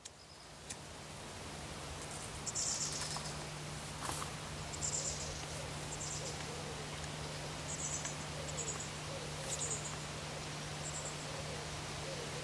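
Steady hiss with a low hum, fading in over the first two seconds, with short high chirps every second or so.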